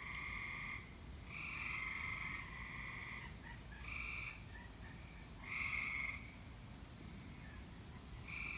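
Tree frogs calling from the trees: repeated calls about half a second to a second long, with two calls overlapping between about one and three seconds in.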